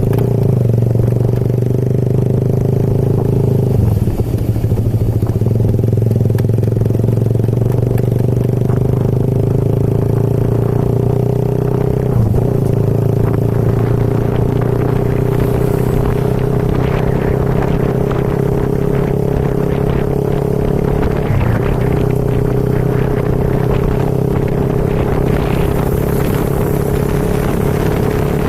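Motorcycle engine running at a steady cruising pitch while riding, briefly dipping three times.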